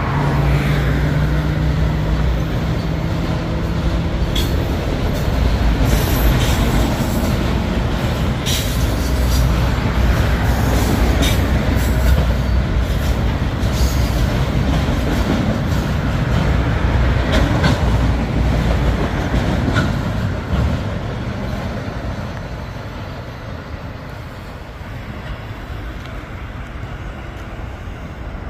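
Autorack freight cars rolling past, wheels rumbling steadily and clicking over the rail joints, with a low steady tone in the first few seconds. The rumble fades after about twenty seconds as the end of the train draws away.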